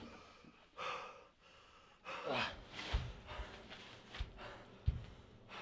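A person gasping and breathing hard, with a short falling groan about two seconds in, and a few dull thumps.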